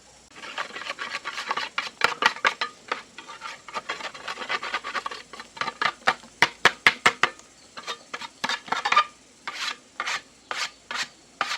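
Rhythmic rasping strokes of a hand tool scraped back and forth over a hard surface, in quick runs with brief pauses between them.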